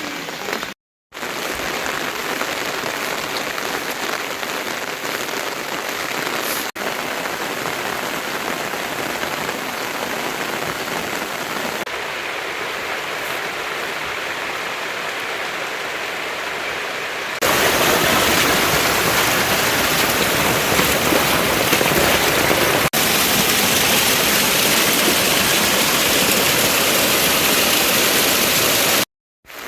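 Heavy rain falling steadily, a dense even hiss. It breaks off into silence briefly twice, about a second in and just before the end, and grows louder and brighter a little past halfway.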